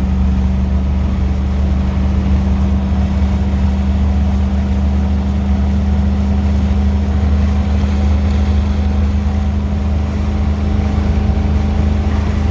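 Ford 460 big-block V8 running at a steady cruise under the vehicle's driving load, a constant low drone with no change in revs.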